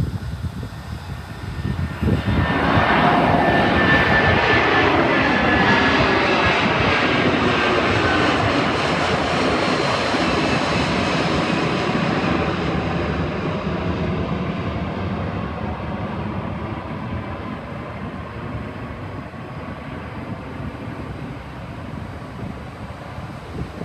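Airbus A330-200 jet airliner passing the microphone. Its engine noise swells suddenly about two seconds in, the tones fall in pitch as it goes by, and the sound then slowly fades away.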